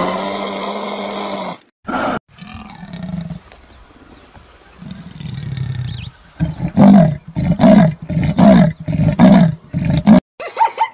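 Jaguar's sawing call: a run of deep, evenly spaced grunts, about two a second, in the second half, after a stretch of lower growling. It opens with a long, low held call in the first second and a half.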